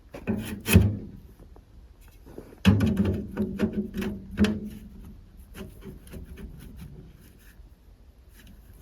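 Pieces of firewood being handled: irregular wooden knocks, clatters and rubbing, loudest in a cluster of thuds a few seconds in, then lighter clicks and scrapes.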